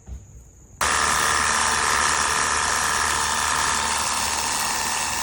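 A cordless pressure washer's electric motor and pump switch on suddenly about a second in and run steadily, with a low hum and a steady hiss.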